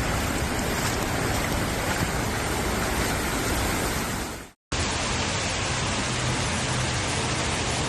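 Steady, dense hiss of rushing floodwater. It cuts out briefly about four and a half seconds in, then the same kind of water noise resumes.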